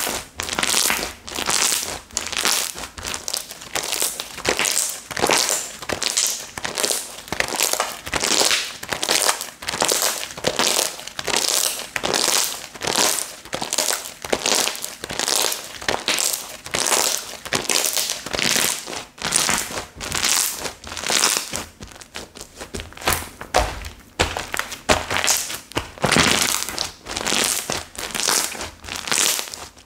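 Slime being pressed and folded by hand: a steady run of short, hissy squishes, about two a second.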